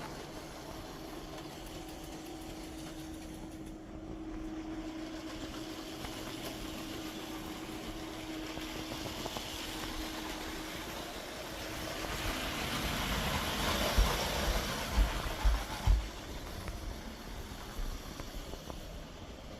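A Lego toy train running on plastic track, its small electric motor humming steadily. The sound swells as the train comes closest, about two-thirds of the way through, and a few low thumps follow.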